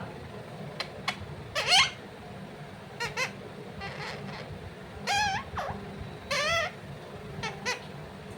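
Pet parrot giving about five short, high-pitched calls, several of them warbling in pitch, with faint ticks between them.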